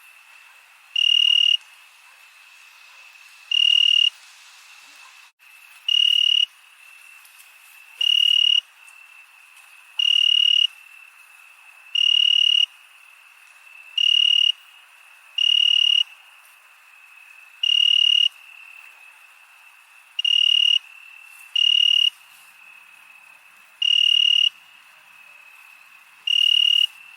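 Crickets at night: one loud cricket chirps in half-second bursts about every two seconds over a steady, fainter trill from others.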